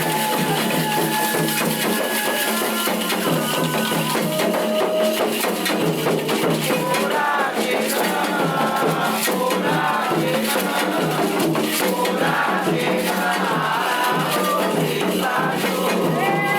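A Candomblé ritual song sung over hand percussion, with shakers and rattles keeping a dense, even beat throughout.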